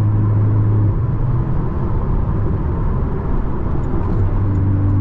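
Porsche 718 Cayman's turbocharged flat-four engine and tyre noise heard from inside the cabin while cruising: a steady low drone that breaks into an uneven rumble about a second in and settles back to a steady drone near the end.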